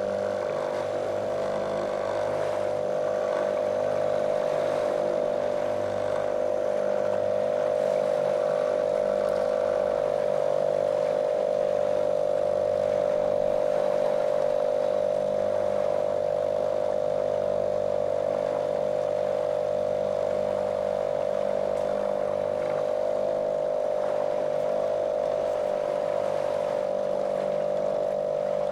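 Small motorboat's outboard motor running at a steady cruising speed, a monotonous drone with a constant pitch.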